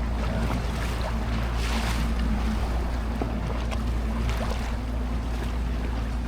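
A small motor boat's engine running steadily with a low drone, under the hiss of water and wind.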